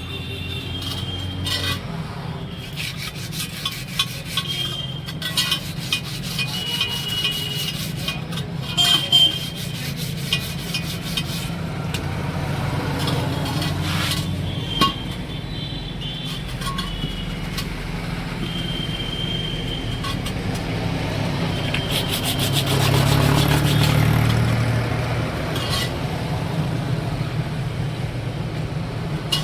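Tyre being worked on its wheel rim during a tyre change: rubber and metal rubbing and scraping, with scattered clicks and short high squeaks. A vehicle swells past about 23 seconds in.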